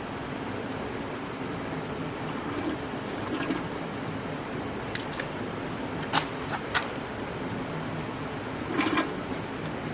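Gear oil trickling and gurgling through a hose as it is drawn from a tilted bucket into a Tesla Model 3's front gearbox, over a steady low hum, with a few short sharp clicks in the second half.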